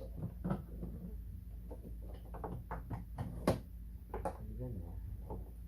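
Light knocks, clicks and rustles of plastic parts and wires being handled as wiring is fed through a hole in a ride-on toy truck's plastic body, with one sharper knock about three and a half seconds in. A steady low hum runs underneath.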